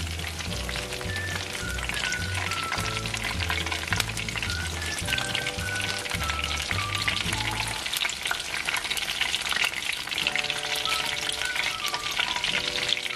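Eggplant pieces deep-frying in hot oil in a wok: a dense, steady crackling sizzle as they are lifted out with a wire spider strainer. Background music plays underneath.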